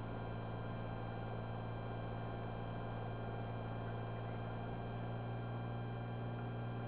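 Steady low drone of a Cessna 182's engine and propeller in flight, with a faint steady high whine above it, heard through the cockpit intercom feed.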